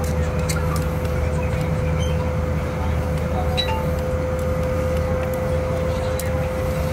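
Cabin noise of a CRH380 high-speed train running at speed: a steady low rumble with a constant whine held at one pitch, and a few faint ticks.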